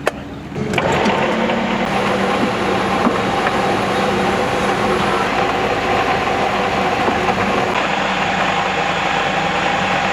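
A click, then a heavy machine starts abruptly and runs steadily, with a low hum and a higher steady whine over a broad rumble.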